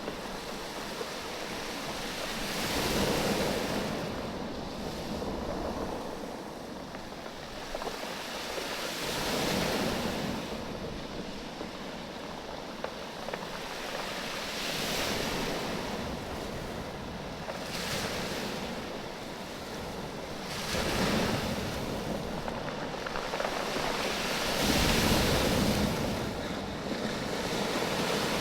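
Waves surging in and draining back over a beach of rounded oval stones, the stones clattering and knocking against each other as the water moves. The wash swells about every five or six seconds.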